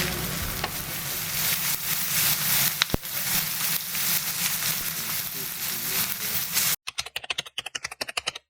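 Food sizzling and crackling in a hot frying pan: a steady hiss dotted with quick pops of spitting fat. It cuts off into scattered crackles and then silence near the end.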